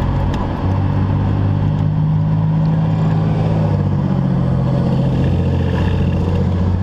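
Car engine running close by in street traffic, a steady low drone with road noise.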